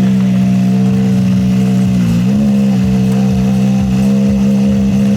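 Rally car engine idling steadily, with a brief dip and rise in pitch about two seconds in.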